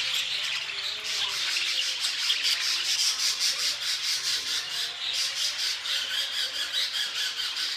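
A flock of young budgerigars chattering and squawking, many birds calling over one another in a continuous scratchy twitter.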